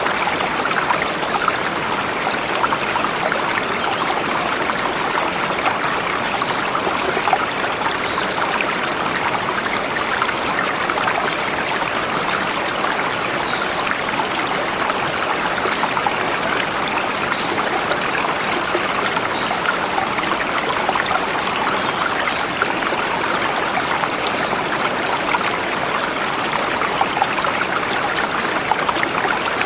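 Forest river flowing over rocks, a steady rushing and splashing.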